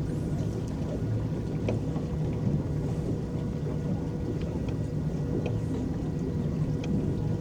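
Small electric boat under way on a lake: a steady low hum with a faint whine, and water lapping and splashing against the hull in small ticks.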